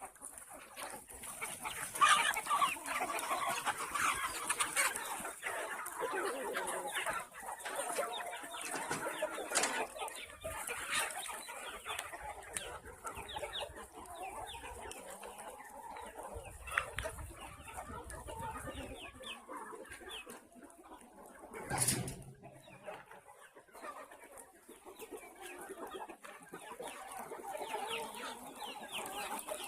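A flock of chickens clucking and calling together, a dense, continuous chatter, loudest a couple of seconds in. About two-thirds of the way through there is a brief thump.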